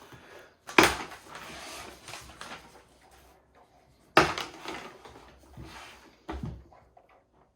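Hard plastic knocks and rattling from handling a plastic toy tyre case: three sharp knocks, about a second in, about four seconds in and just after six seconds, with softer handling noise between.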